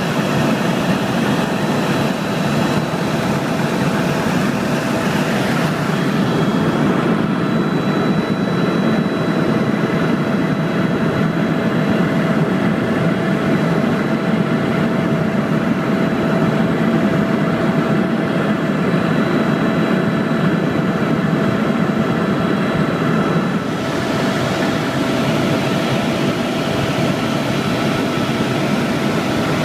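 Helicopter in flight: a steady, loud rush of engine and rotor noise with a few steady whining tones. The high hiss dulls about six seconds in and comes back about twenty-four seconds in.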